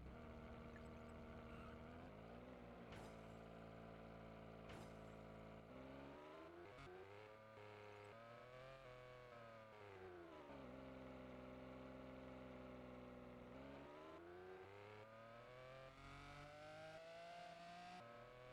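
Faint car engine running while driving, its pitch dropping about a third of the way in and again near the middle, then climbing steadily near the end as the car speeds up.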